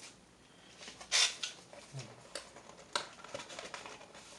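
A few short rustles and taps from a card box and its plastic wrapping being handled, the loudest about a second in.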